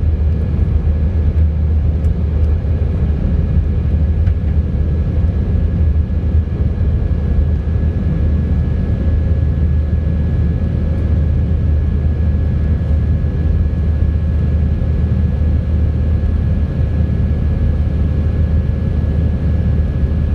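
Steady cabin roar of an Airbus A319 under way: a deep, even engine rumble with a steady whine held above it.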